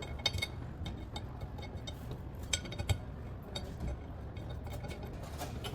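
A few light metallic clicks and clinks, scattered and irregular, as small threaded feet are fitted and screwed into the tapped holes of a cast iron sand tray.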